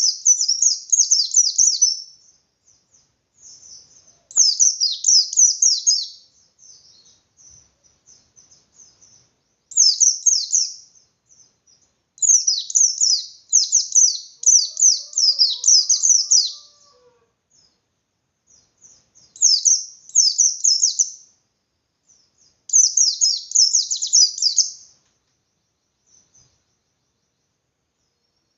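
White-eye (pleci) singing in the fast 'ngalas' style: six bursts of rapid, high-pitched chattering notes, each one to four seconds long, with short pauses between them.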